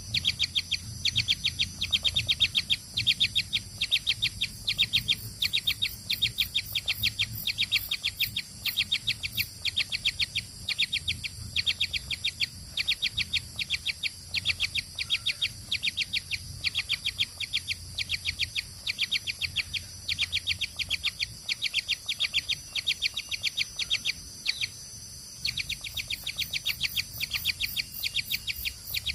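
Baby birds chirping rapidly and continuously in quick runs of many calls a second, with brief breaks, over a steady high whine.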